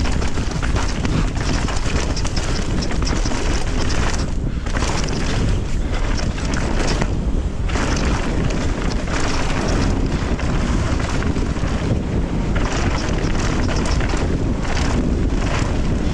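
Wind buffeting the camera microphone during a mountain-bike descent: a loud, steady rush with brief dips now and then.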